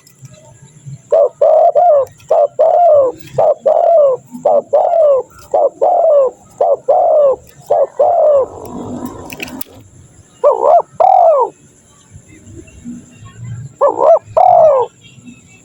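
Spotted dove (tekukur) cooing: a quick run of repeated arched coos for several seconds, then, after pauses, two short phrases of two or three coos each.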